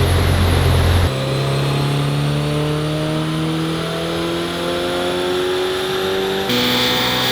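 Toyota GR86's 2.4-litre flat-four engine through a Magnaflow NEO cat-back exhaust, its note rising steadily as the car accelerates. The sound cuts abruptly to a new clip about a second in and again near the end.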